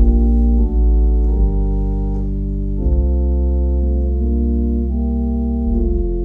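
Organ playing slow, sustained chords over a deep bass, the harmony changing every second or so.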